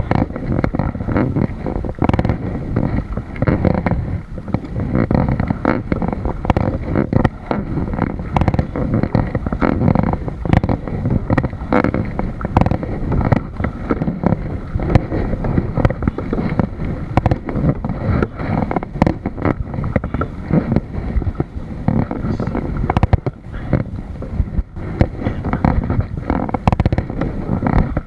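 Continuous muffled wind rumble on the microphone aboard a kayak, with frequent irregular knocks.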